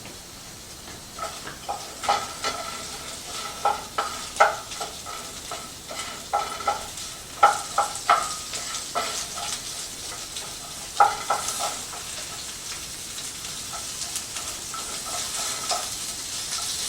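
Asparagus sizzling in hot olive oil in a 10-inch Viking skillet while being stirred, the utensil knocking and scraping against the pan with a brief ring at the harder knocks. The stirring stops about twelve seconds in, leaving the steady sizzle.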